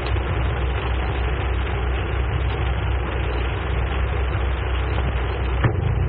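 Train running: a steady rumble and rush of noise, changing abruptly near the end.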